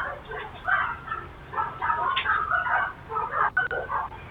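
Dog barking rapidly and repeatedly, heard through a doorbell camera's thin, tinny audio.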